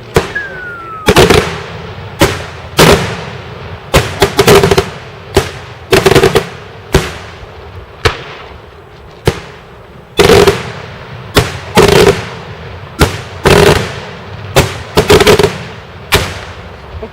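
Daytime fireworks: a long run of loud bangs from exploding shells, irregular and about one to two a second, some coming as quick rattling clusters of cracks. A short falling whistle sounds right at the start.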